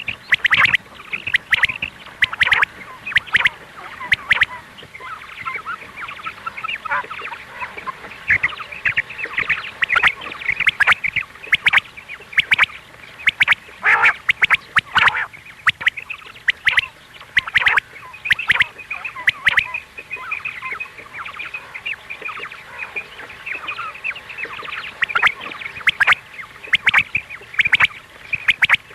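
Quail calling continuously: many short, harsh chirping notes crowding over one another, with sharp clicks here and there. It is a quail-call recording of the kind played to lure quail for hunting.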